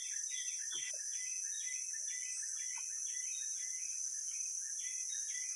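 Forest insect chorus: a steady high-pitched hiss with a rapid, even series of short chirps repeating about three to four times a second.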